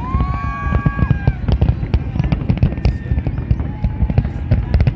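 Fireworks display: a rapid, continuous stream of bangs and crackles over a low rumble. A held tone of about a second rises in near the start, and a shorter one comes in around four seconds in.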